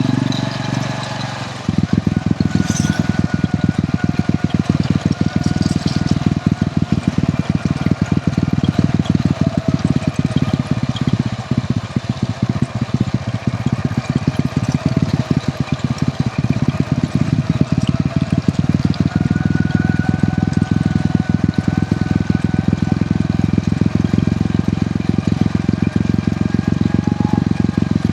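Hero Honda CD100's small single-cylinder four-stroke engine running under way, with a rapid, even pulsing and wind noise. It picks up sharply about two seconds in and then holds steady.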